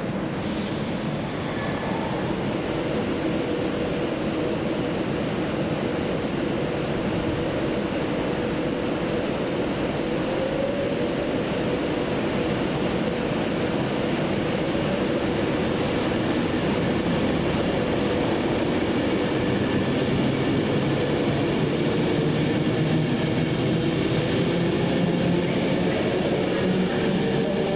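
Train running: a steady rumble with faint whining tones that drift in pitch, growing slightly louder, and a short hiss right at the start.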